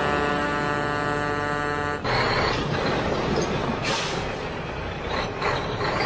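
Vehicle on the road: a steady engine drone for about the first two seconds, then rougher road noise with a few short, sharp sounds.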